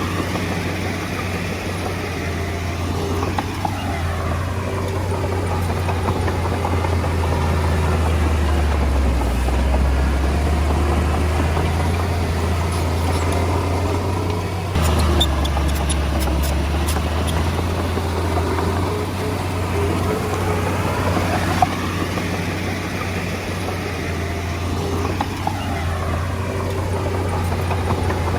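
Komatsu D20A bulldozer's diesel engine running steadily at work, its pitch rising and falling. There is a brief run of clicks and rattles about halfway through.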